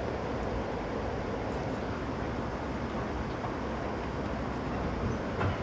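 Steady rumble of a moving passenger train heard from on board, the running noise of wheels on the rails and the car in motion, with a single short knock about five seconds in.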